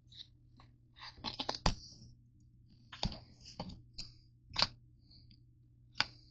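Irregular light clicks, crinkles and knocks of objects and packaging being handled, with a quick cluster of crackles about a second in and sharper knocks near the middle and end, over a steady low hum.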